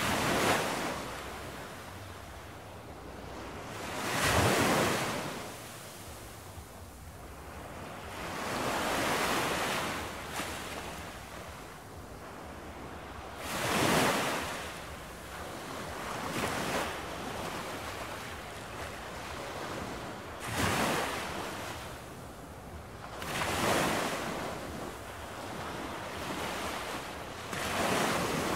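Ocean waves breaking on a beach: about eight surges of surf that each swell and fade, every three to five seconds.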